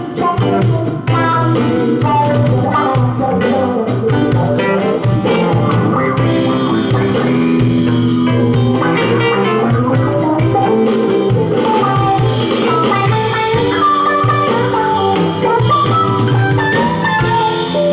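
Live rock band playing an instrumental passage: electric guitars, keyboards, bass and drum kit, with no singing.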